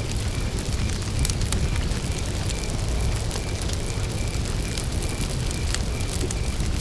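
Wood campfire burning with a low rumble and frequent crackles and pops. A cricket chirps steadily in the background, a few chirps a second.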